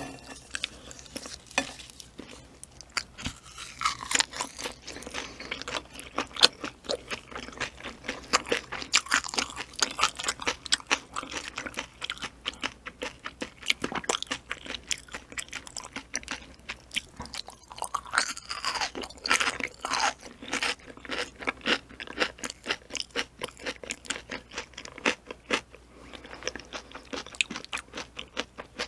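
Close-miked chewing of ocean sunfish jelly wrapped in a perilla leaf, a mass of small irregular crunches and clicks.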